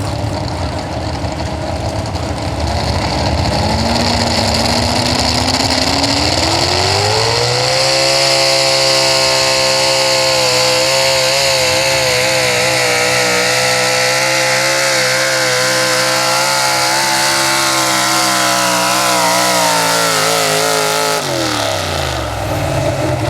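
Big-block V8 pulling truck's engine winding up under load as it pulls the sled, held at high revs for about thirteen seconds with a slight waver near the end, then dropping off sharply as the driver lets off.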